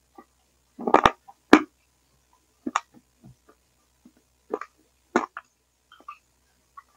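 Close-up mouth sounds of a person chewing food: short wet smacks, clicks and squelches that come and go, with the sound cutting out completely between them. The sound is heard through a wired headset microphone that the uploader blames for a gurgling, frog-like sound.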